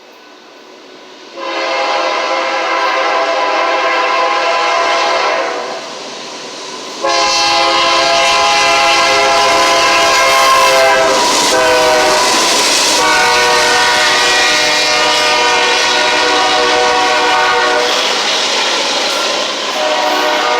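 Train horn sounding two long blasts, the first about four seconds, the second about eleven seconds, each a chord of several notes. The rumble of the approaching train starts with the second blast.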